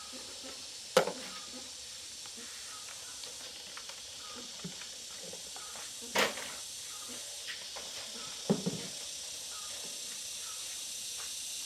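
Three sharp knocks, about a second in, near the middle and a quick double near the end, over a steady hiss.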